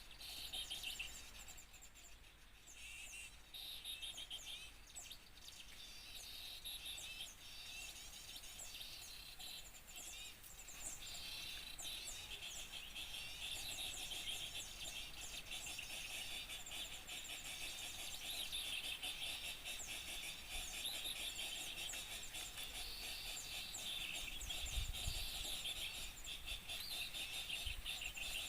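Many small birds chirping and twittering at once in a dense, continuous chorus of quick high calls, thickening after about ten seconds: a lure recording for attracting small birds.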